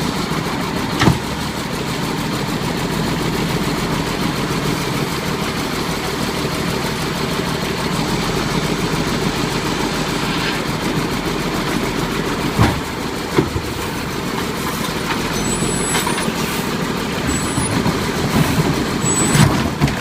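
Garbage truck's diesel engine running steadily, with a few sharp clanks: about a second in, twice a little past the middle, and again near the end.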